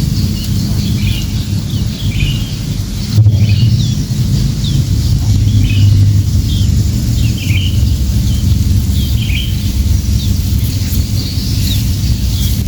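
Small birds chirping in short, repeated calls over a steady low rumble. The loudness steps up about three seconds in.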